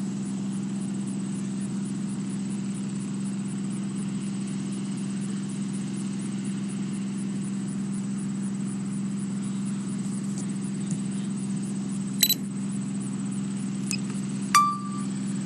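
Steady low engine hum, like a vehicle idling. A couple of short clicks near the end, the last with a brief beep.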